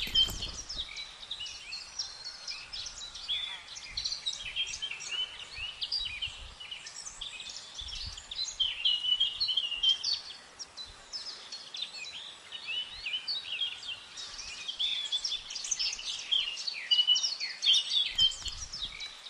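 Many small birds chirping and calling at once, a busy run of short overlapping chirps and trills.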